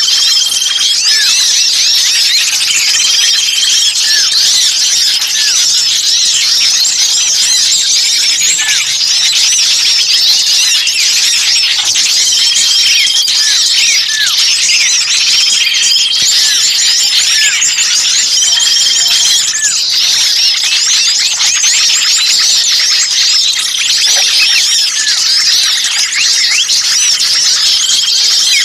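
A dense, busy chorus of many small birds chirping and twittering at once, with a short level whistle repeating every few seconds. It is a lure-call recording of noisy small birds, played to draw in wild birds.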